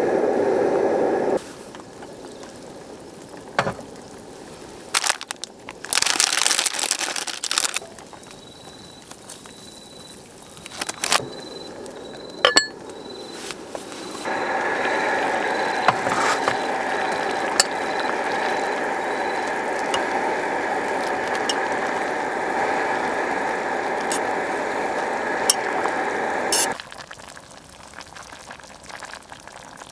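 Camp cooking gear in use: scattered clinks and clicks and a brief hiss, then a steady hiss lasting about twelve seconds that stops suddenly.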